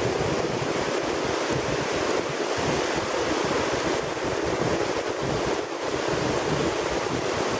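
Ocean surf washing onto the beach, a steady rushing, with wind buffeting the microphone.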